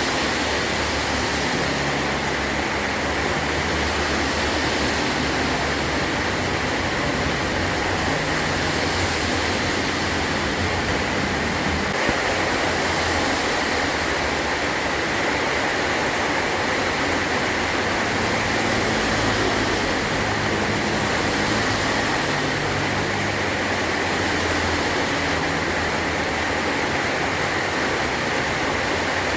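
Heavy rain drumming steadily on a metal roof, a dense unbroken hiss.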